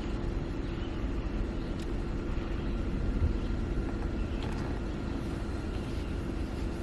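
Steady running noise of a car: a constant low rumble with an even hum, no change in pace.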